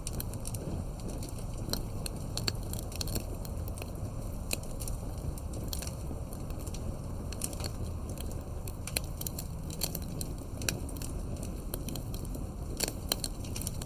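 Wood fire burning, with a steady low rush of flames and many irregular sharp pops and crackles.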